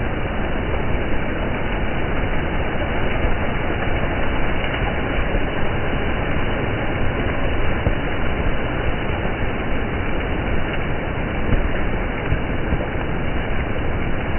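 Steady rushing splash of water on a rain-soaked street, a continuous even noise with no distinct splashes or passes.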